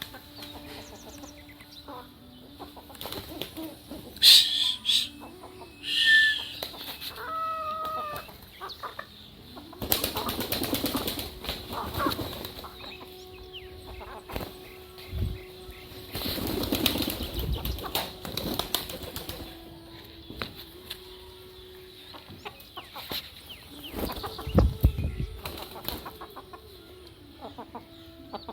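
Village poultry: several bursts of wing flapping mixed with short chicken calls and clucks.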